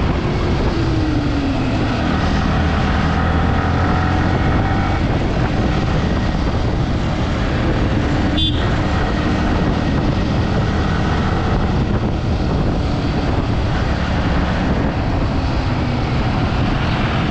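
Yamaha R15 V3's single-cylinder engine running under way, with heavy road and wind noise and the engine note falling over the first couple of seconds. A brief sharp high-pitched beep about halfway through.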